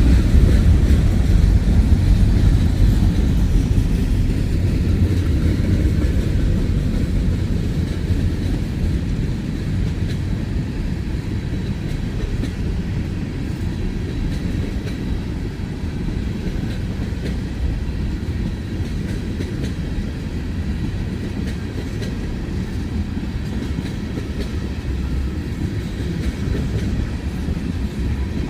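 Freight cars of a long train rolling past close by: a steady low rumble of steel wheels on rail, with faint clicking as the wheels cross rail joints. The rumble eases slightly over the first several seconds, then holds steady.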